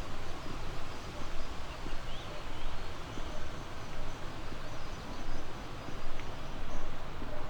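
Outdoor ambience: a steady wash of noise with an uneven low rumble, and a few faint bird chirps above it.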